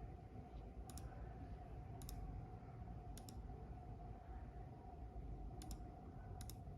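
Akko LW325 mouse buttons clicking, five separate clicks at uneven intervals, each a quick press-and-release pair from the button switch, over a faint steady hum.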